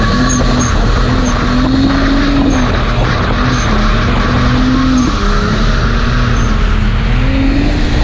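A car engine revving hard, its pitch climbing and dropping back several times, over steady wind and road noise, as heard from a chase car following a drifting car.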